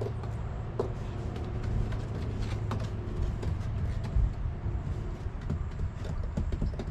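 An engine running steadily at a low hum, with scattered knocks and scrapes over it.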